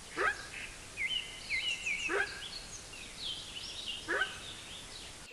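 An animal's short calls, each sweeping sharply upward in pitch, repeated about every two seconds, with birds chirping in the background.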